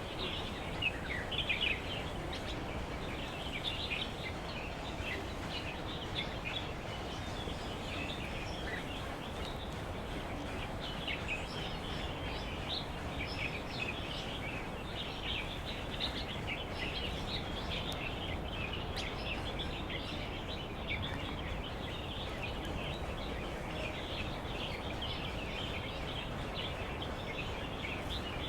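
Many birds chirping continuously in short, overlapping calls over a steady background noise.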